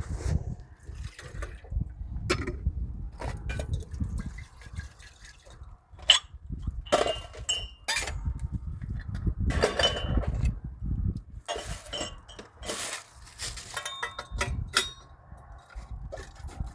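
Water splashing and dripping, with irregular knocks and a few short ringing clinks as dishes or containers are handled, over a steady low rumble.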